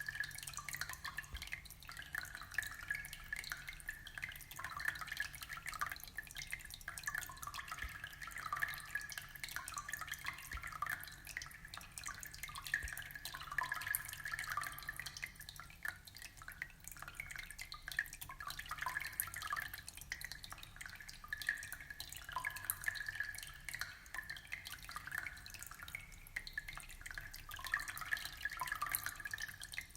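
Aquarium water trickling and bubbling steadily, with many small drips and plinks.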